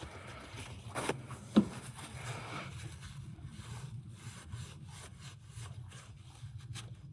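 Two sharp knocks, then a run of quick rasping, rubbing strokes: a hand tool scraping or rubbing on a part.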